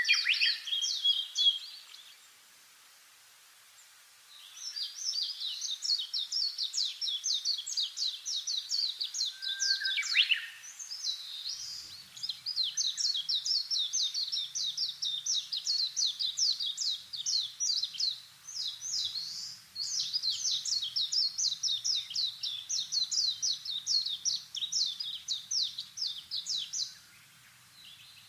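Birds chirping in long runs of quick, high, repeated notes, several a second, broken by a short pause a couple of seconds in and again near the end.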